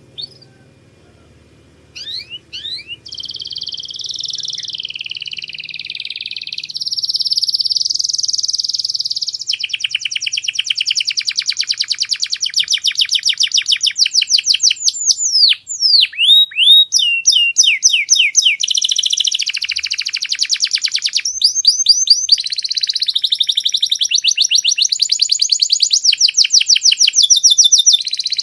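Domestic canary singing a long, nearly unbroken song of rapid trills and rolls, switching to a new phrase every few seconds after a few short opening notes.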